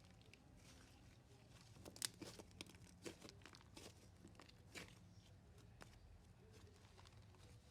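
Faint sticky clicks and crackles of marshmallow slime being stretched and kneaded by hand, with the sharpest pop about two seconds in. The slime is stiffening as the added ingredient tightens it.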